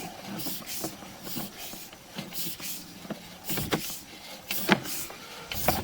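Sewer inspection camera's push cable being fed down a sewer main, giving irregular clicks and knocks over a steady low hiss, with a louder cluster of knocks past the middle.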